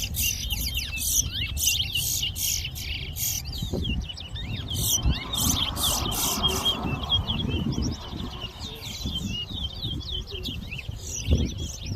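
Caged towa-towa seed finches singing in a whistling contest: rapid, high, twittering chirps that run on in quick strings. There is a low rumbling background.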